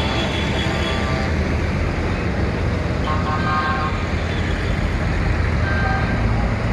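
Tractor diesel engines running steadily as a convoy of tractors passes, with a couple of brief horn toots, one about halfway through and one near the end.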